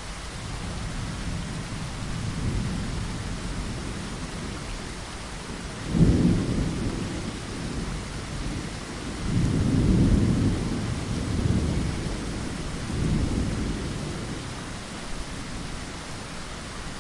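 Steady rain against a window, with thunder: a sudden low crack and rumble about six seconds in, then two more rolling rumbles that swell and fade.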